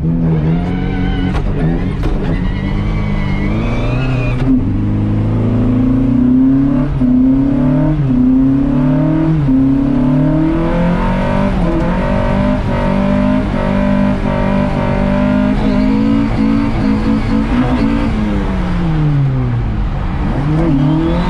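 Classic Lada's four-cylinder engine heard from inside the cabin, revving hard through the gears under hard driving. The pitch climbs, drops suddenly about four seconds in as a gear is taken, climbs again in steps, then falls away near the end as the revs come down before picking up once more.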